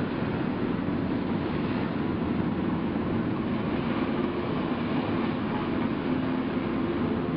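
Military helicopter flying, a steady drone of rotor and engine that holds at one level throughout.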